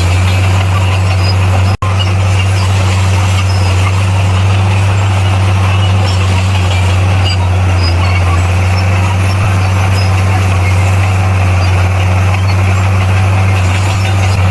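Bulldozer's heavy diesel engine running steadily with a deep, even hum, cut by a momentary drop-out in the sound just under two seconds in.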